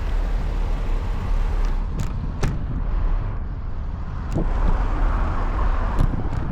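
Steady low rumble of road traffic and riding noise heard from a bicycle, with a few sharp clicks about two seconds in, again past the middle and near the end.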